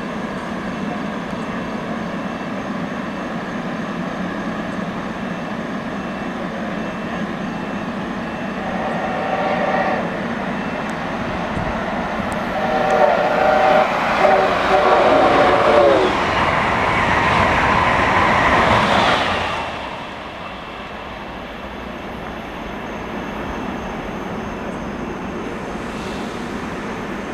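Amtrak Acela Express power car sounding its K5LA horn, a short blast and then a longer one whose pitch drops at its end, before the train rushes through the station at speed. The rush cuts off sharply about two-thirds of the way in. A steady hum of a standing train runs underneath.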